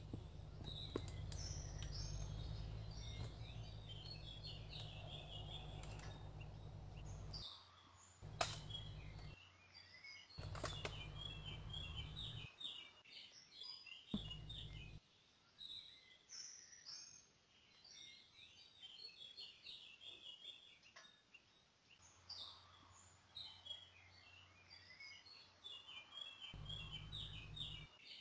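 Songbirds chirping steadily, over a low rumble that comes and goes. A few sharp knocks stand out, the loudest about eight seconds in.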